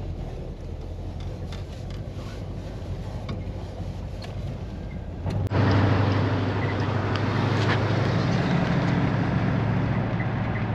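A 1957 Chevy Bel Air driving, heard from inside the cabin: a steady engine hum with road noise. About halfway through there is a sharp click, and the engine and road noise become clearly louder.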